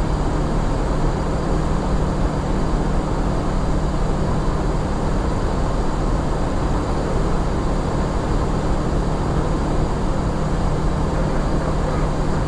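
Steady flight-deck noise of an Airbus A350-900: an even rush with a constant low hum, unchanging throughout.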